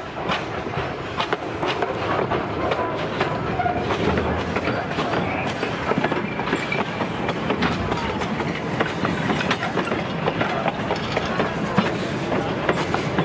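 Small tourist train passing close by: the locomotive and open passenger cars rumble along the track, their wheels clicking rapidly over the rail joints. It grows louder over the first second or two as the train comes alongside.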